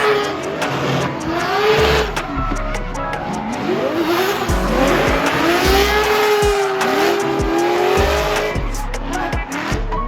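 Drift cars on track, engines revving up and down over and over as tires squeal through the slides. A music track with a steady bass runs underneath.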